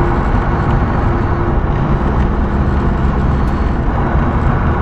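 Semi truck's diesel engine and road noise while driving, a steady low drone. The engine note drops about two seconds in. The truck is pulling with its turbo failed or barely working.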